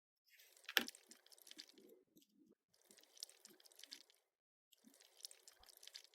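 Play-Doh modelling dough being squished and worked by hand, in three short bouts of faint, crackly, sticky handling noise, with one sharp click just under a second in.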